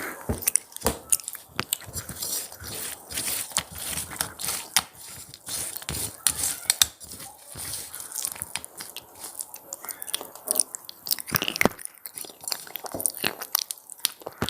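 Close-up eating of a crunchy cheese pizza snack: repeated crisp bites and chewing crunches at an uneven pace.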